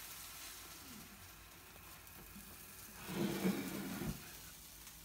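A buttered patty melt sizzling faintly in a frying pan, with a short louder noise about three seconds in as the sandwich is lifted out.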